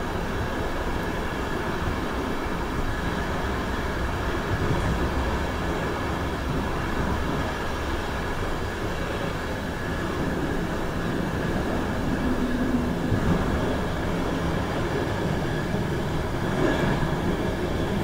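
A passenger train running through a mountain tunnel, heard from its rear door: a steady, dense rumble of wheels on the rails, closed in by the tunnel walls.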